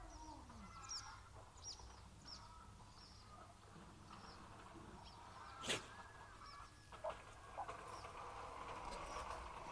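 Faint, high chirps from small birds, each short and falling in pitch, repeating about once a second. A single sharp knock sounds about six seconds in, followed by two softer clicks.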